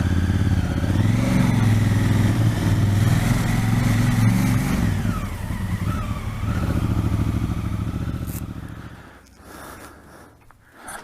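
Motorcycle engine running at low speed, easing off about five seconds in and idling, then switched off about nine seconds in as the bike is parked.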